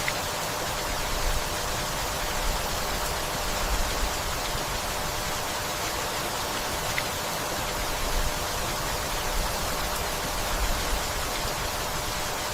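Steady rainfall, an even hiss of many drops, with a few single drips standing out and several short, soft low thumps now and then.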